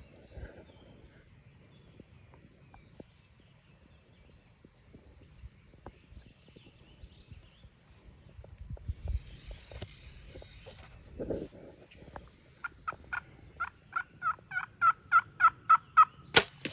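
Turkey calling: a run of about fifteen evenly spaced yelps, about four a second and growing louder, in the last four seconds. One sudden sharp crack cuts the run off at the end.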